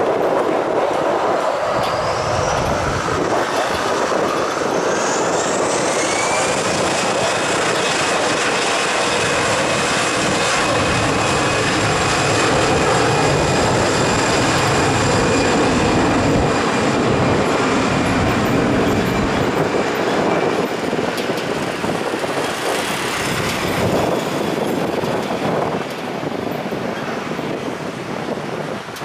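Airbus A320's twin CFM56 turbofan engines at takeoff thrust: a whine climbing in pitch over the first few seconds, then holding steady over loud jet noise, which fades somewhat near the end.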